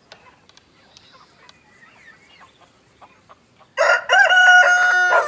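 Chickens clucking faintly, then a rooster crows loudly about four seconds in: one long call that rises briefly and holds a steady pitch for about a second and a half.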